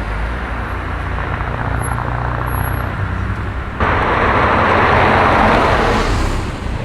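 Road traffic: a low car engine rumble, then about four seconds in an abrupt, louder rush of engine and tyre noise, like a car passing close, fading near the end.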